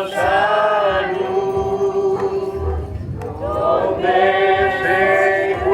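A group of voices singing a worship chorus together, holding long sustained notes in two phrases with a short break between them.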